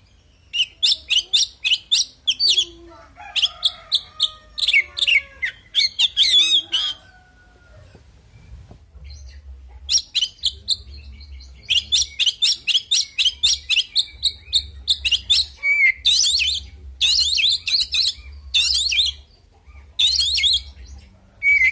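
Oriental magpie-robin (kacer) singing its aggressive fighting song, fast bursts of rapidly repeated whistled and scratchy notes with a pause of a couple of seconds near the middle.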